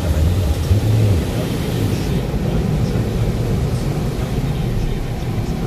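Touchless car wash machinery running around the car, heard from inside the cabin as a loud, steady rushing rumble.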